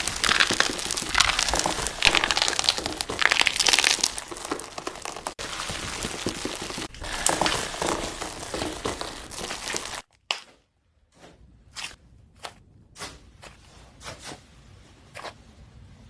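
Slime being squeezed and kneaded, with dense crackling and popping. After a cut about ten seconds in, it drops to separate sharp pops and clicks, roughly one or two a second.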